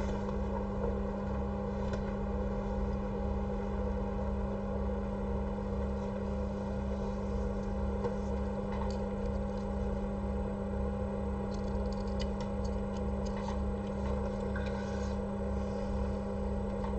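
Steady low electrical hum with a faint regular low pulsing under it and a few light ticks.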